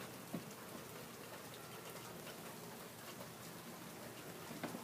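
Faint, steady rain during a thunderstorm, with a few scattered light ticks like drips.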